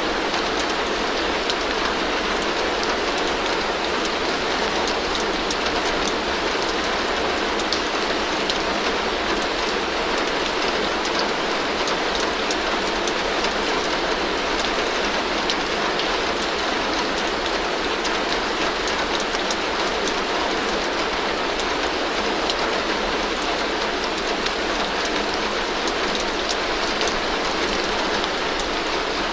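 Heavy rain drumming steadily on a tin roof, a dense even patter with many small sharp drop ticks, with water streaming off the roof edge.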